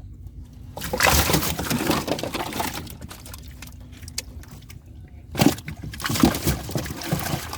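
Water splashing and sloshing in two bursts, about a second in and again from about five seconds in, mixed with knocks and clatter.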